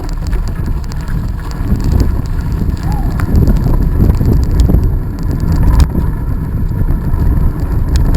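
Wind buffeting the microphone of a camera carried on a moving bicycle, with scattered clicks and rattles from the bike and a sharper knock about six seconds in.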